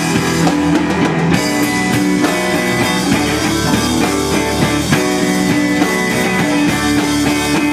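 Instrumental rock music: guitars with a drum kit keeping a steady beat, no vocals.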